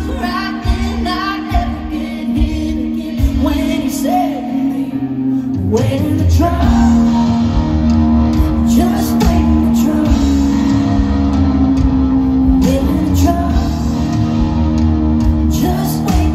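Live country music: a band with guitar and a woman singing. The accompaniment is sparse at first, and the full band comes in, louder, about six seconds in.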